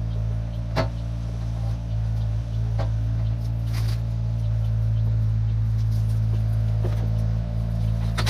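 1972 Chevrolet C50 dump truck's engine running with a steady low drone, with a few short knocks or rattles over it.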